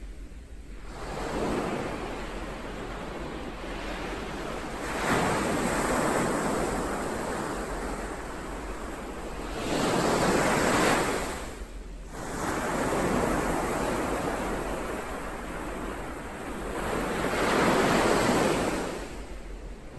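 Ocean waves breaking and washing ashore, rising and falling in about five surges.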